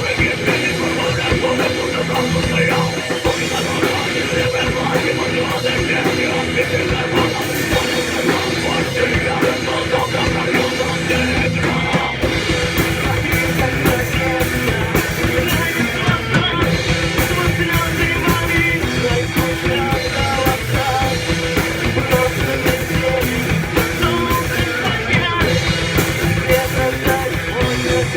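A heavy metal band playing a song: electric guitars and a drum kit, with singing at times.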